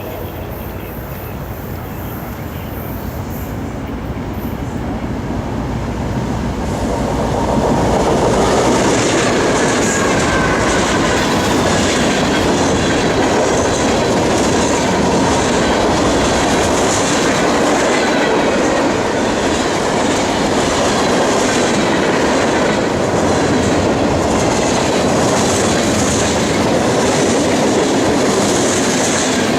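A train passing close by on the track. A low rumble in the first several seconds swells about seven seconds in into the steady rolling noise of rail cars going past, with wheels clicking over the rail joints at a regular beat.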